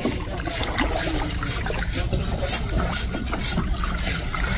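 Seawater lapping and splashing in the shallows: a steady, irregular wash with small crackling splashes.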